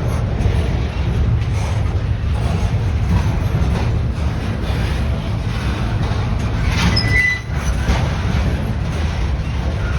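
A train passing: a loud, steady rumble, with a brief high-pitched squeal about seven seconds in.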